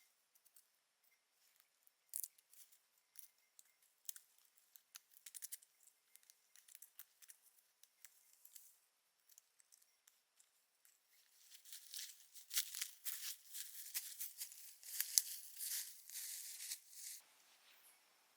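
Close handling sounds: scattered light clicks and snips, then a few seconds of dense rustling and crinkling that stops suddenly near the end.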